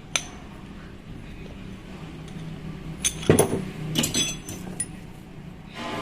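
Metal parts of a rotary hammer clinking and knocking as it is taken apart: one sharp click just after the start, then a cluster of clinks and knocks around the middle.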